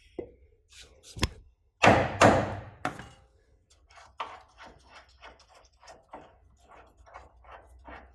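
Metal knocks and clunks from hand tools working on a car's rear subframe. A couple of single knocks come first, then a heavy clunk about two seconds in, then a steady run of lighter taps, about two or three a second.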